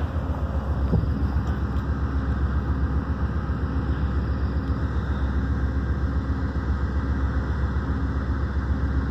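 An engine idling: a steady low rumble with a faint hum.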